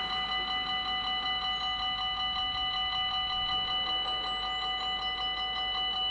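Dutch level crossing warning bell ringing with fast, evenly spaced metallic strikes, a steady repeating ding that signals the barriers are closing or closed for an approaching train.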